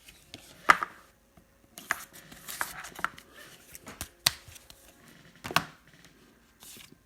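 Trading cards and their packaging handled on a table: scattered sharp clicks and taps with short rustles, the loudest about a second in and again around four and five and a half seconds.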